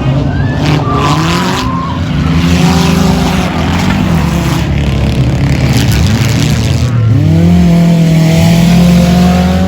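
Several race car engines running at once, their pitch rising and falling as the drivers accelerate and lift. Near the end one engine holds a steady high pitch and is the loudest.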